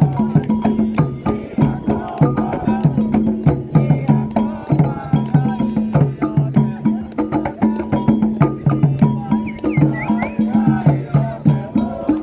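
Candomblé toque: atabaque drums playing a fast repeating rhythm with sharp, clicking strikes on top, and voices singing over it.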